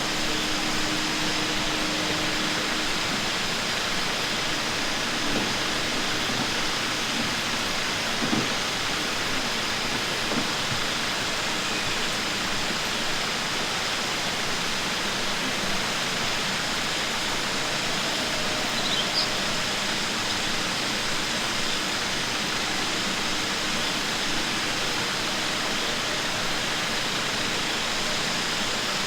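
Steady rushing noise, even and unbroken, with a faint short thump about eight seconds in.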